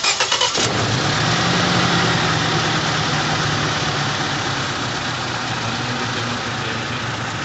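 Toyota Innova gasoline VVT-i engine with a misfire, cranked on the starter for a moment, catching about half a second in and settling into a steady idle.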